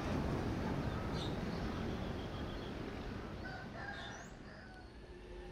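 Rumble of a passenger train fading steadily as it moves away, with a rooster crowing faintly in the middle.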